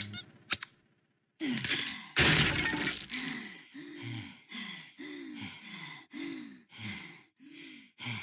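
A loud crash with a breaking sound about a second and a half in. Then heavy panting follows, about two voiced breaths a second, each falling in pitch, as from someone worn out after fending off a barrage of spells.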